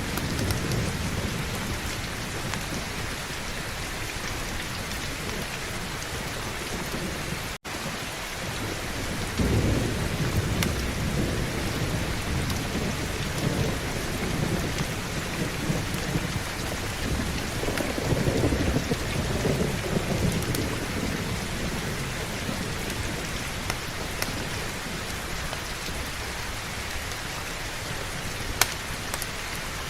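Steady heavy rain with rolling thunder. One low rumble comes at the start, a longer one builds about a third of the way in, and another swells past the middle. The sound drops out for a split second about a quarter of the way in.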